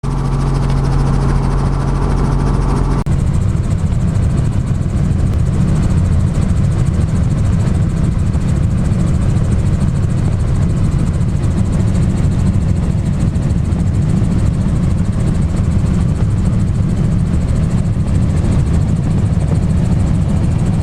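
Helicopter engine and rotor noise, loud and steady. A steady hum for the first three seconds changes suddenly to a rougher, heavier rumble.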